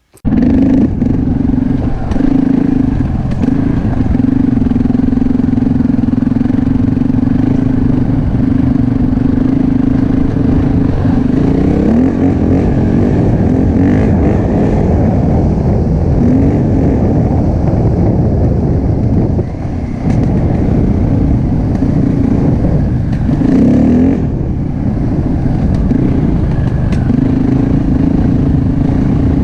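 Enduro motorcycle engine running under way. The sound starts abruptly, then holds a steady pitch with brief rises and falls as the throttle opens and closes, notably around twelve seconds in and again near twenty-four seconds.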